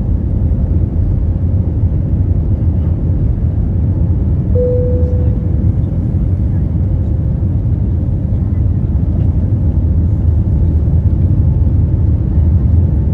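Steady low rumble of an Airbus A321neo heard from inside the passenger cabin, engines and airflow running. A single short tone sounds about four and a half seconds in and fades out.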